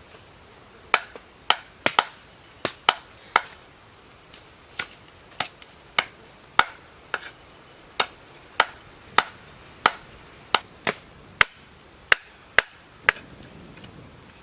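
A knife chopping on a cutting board in steady, regular strokes, about one to two a second, starting about a second in.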